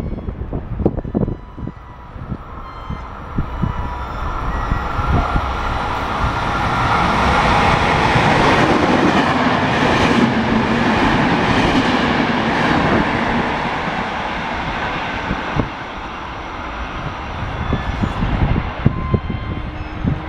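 Regional passenger train running through a station. The rush of wheels on rail builds over several seconds, is loudest about halfway as the coaches pass close by, then slowly fades, with scattered clicks from the wheels.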